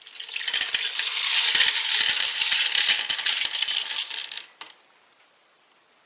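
A dense rattle of many small hard pieces clattering together. It builds up over about half a second, goes on for about four seconds, then stops abruptly.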